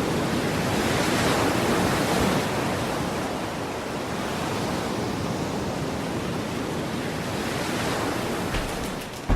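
Ocean surf: a steady rushing wash of waves, swelling slightly in the first couple of seconds.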